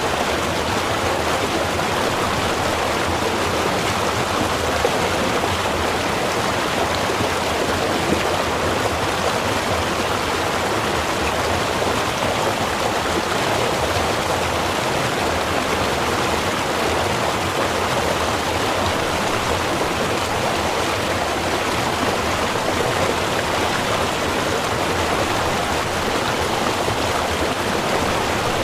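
Small river running steadily over rocks: a continuous, even rush of flowing water with no change in level.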